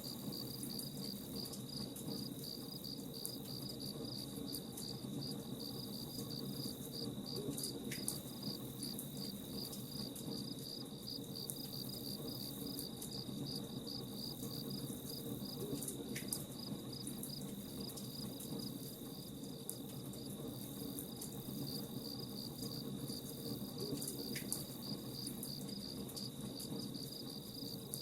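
Crickets chirping in a steady, evenly pulsed trill over a continuous low rumble, with a few faint crackling ticks, as of a campfire burning.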